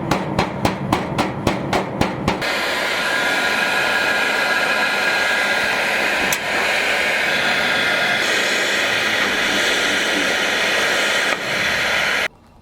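A quick, even run of hammer knocks, about four or five a second, for the first two seconds or so. Then a loud, steady hiss that cuts off abruptly near the end.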